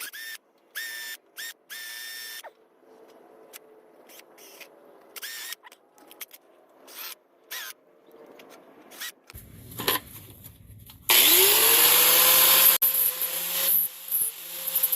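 Power drill run in short whirring bursts, clearing welding slag out of the pin hole in a tractor clutch lever, with scraping between the bursts. About eleven seconds in, a power tool spins up loudly, rising in pitch and then running steadily.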